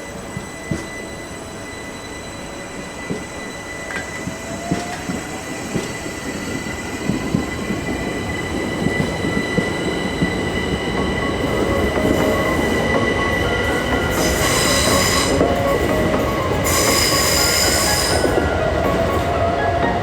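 Class 375 electric multiple unit pulling away, its motor whine rising in pitch early on and the train growing steadily louder. Near the end come two spells of high squeal, typical of wheels on the curved track.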